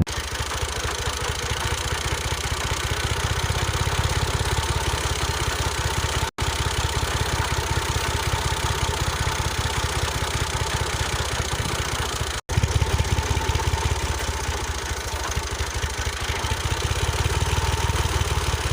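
Small motor of a homemade miniature tractor / chaff-cutter model running steadily with a fast, even buzz. It drops out for an instant twice.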